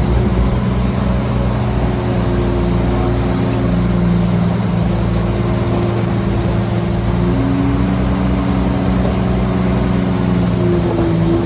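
Heavy diesel engine of earthmoving equipment running steadily at a low, even pitch, with a slight shift in engine note about seven seconds in.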